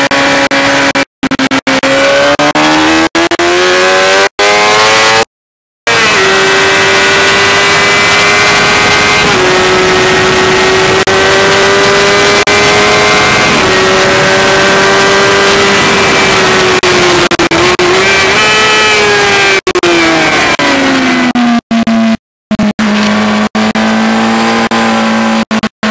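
Suzuki GSX-R750 inline-four engine at racing speed, heard onboard over loud wind rush: the revs rise hard, hold high for a long stretch with small steps between gears, then fall away under braking to a lower steady note. The sound drops out to silence for short moments several times.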